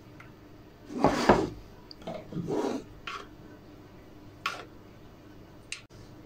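Hand tool scraping across walnut wood: two longer rasping strokes about a second and two seconds in, then three short, spaced-out scrapes.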